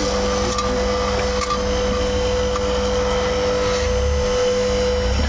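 Scheppach hydraulic log splitter running steadily, its motor and pump giving a constant whine over a low hum, with a few faint clicks.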